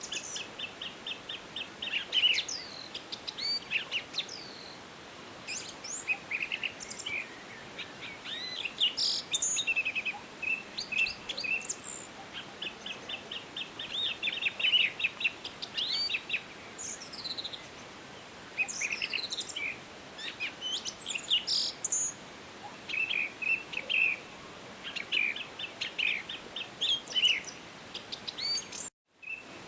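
Several songbirds singing and calling in a forest: rapid trilled runs of notes, chirps and short down-slurred whistles, overlapping over a steady faint hiss. The sound cuts out completely for a moment near the end.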